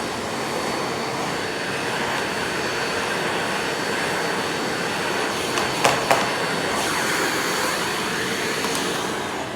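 Miele Blizzard CX1 bagless vacuum cleaner running steadily with a thin high whine as it sucks up flour. Two sharp clicks come just before six seconds in. The motor starts to wind down near the end.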